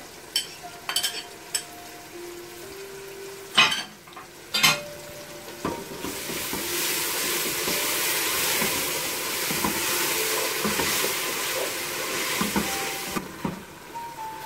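Onion-tomato masala with freshly added yogurt frying in a stainless steel pan, stirred with a wooden spoon: a few light clicks and two sharp knocks about a second apart, then a loud sizzle with stirring that cuts off abruptly about a second before the end.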